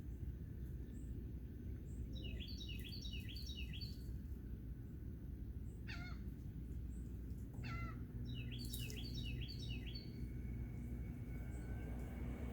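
Wild birds calling: two runs of quick repeated high chirps, and between them two long calls that slide steeply down in pitch, over a steady low background rumble.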